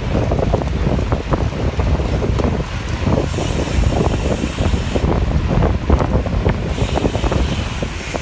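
Wind buffeting the microphone of a camera riding along on a bicycle: a dense, gusty rumble with a brighter hiss coming and going.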